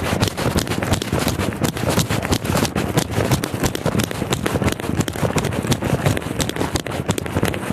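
Close, continuous rustling and knocking of a body-worn camera jostling against the wearer's clothing and gear as he moves quickly, with rapid irregular footfalls.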